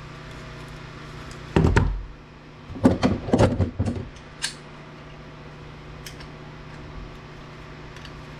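Knocks and thuds of parts from a dismantled APC battery backup unit being handled and set down, a short one about a second and a half in and a longer rattle of several knocks a second later, then one small click, over a steady low hum.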